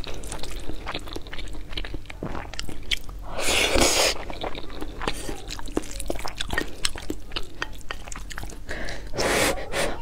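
Close-miked chewing and wet mouth sounds of eating soft tomato-and-egg rice: many small sticky clicks. Two louder noisy swells come about four seconds in and near the end.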